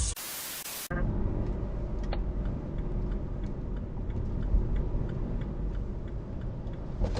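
A brief burst of static hiss, then the steady low road and engine rumble of a moving car heard from inside, with faint regular ticks over it.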